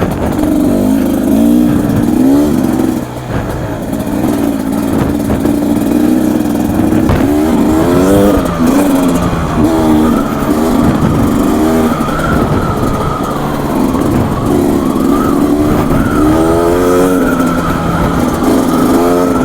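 Beta 250 RR single-cylinder two-stroke dirt bike engine being ridden hard, its pitch repeatedly rising and falling as the throttle is opened and shut.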